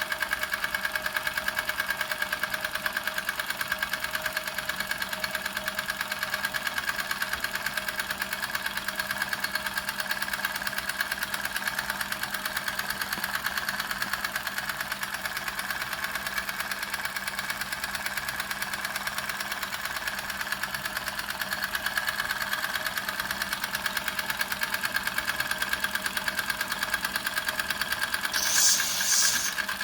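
Doll 511/3 toy steam engine running steadily, a fast even beat of small clattering strokes with a steady ringing tone. Near the end comes a brief hiss in two short pulses.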